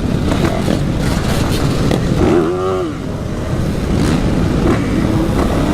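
Motorcycles running in a group on the street, with a busy engine and wind noise. About two and a half seconds in, a short pitched sound rises and falls.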